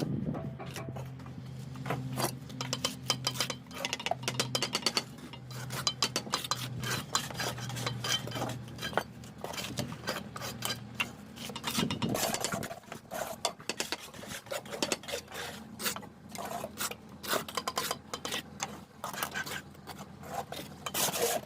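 Steel trowel scraping and clinking against bricks and mortar: many quick, irregular scrapes and taps.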